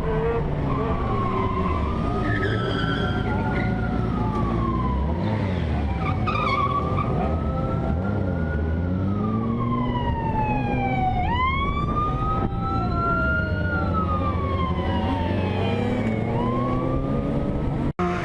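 Police car siren wailing, its pitch rising and falling slowly every few seconds, with a sudden upward jump about two-thirds of the way through. Vehicle engine and road noise run underneath.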